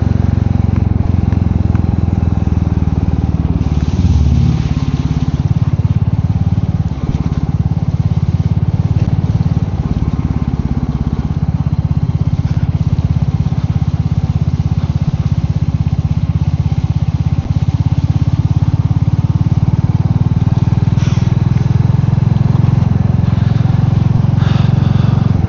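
Royal Enfield Meteor 350's single-cylinder engine running steadily under way, with small changes in its note here and there.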